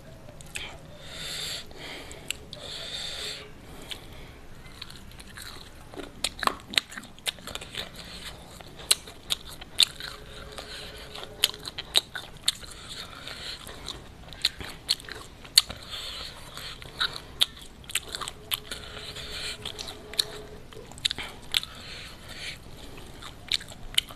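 Close-miked chewing of crispy fried chicken, with many sharp, irregular crunches of the fried coating.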